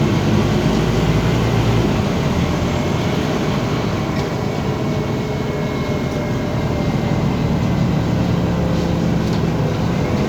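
Scania OmniCity city bus on the move: steady diesel engine and road noise, with a faint high whine running through it.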